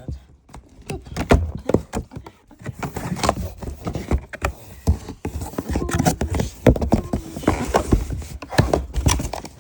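Packaging being handled and opened by hand: a steady run of rustles, crinkles and light knocks.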